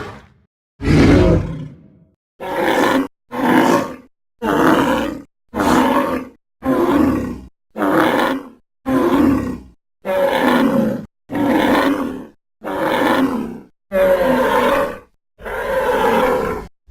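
Sound-effect calls made for a Triceratops: about fifteen short bellowing calls in a row, each under a second and cut off by brief silences. The first is longer and deeper than the rest.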